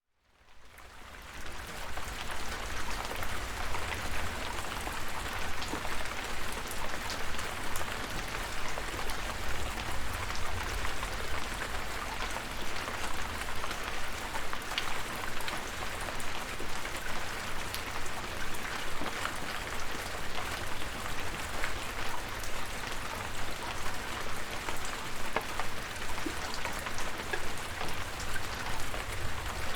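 Steady rain falling, with many separate drops ticking on a surface over a constant hiss and a low rumble underneath. It fades in over the first second or two.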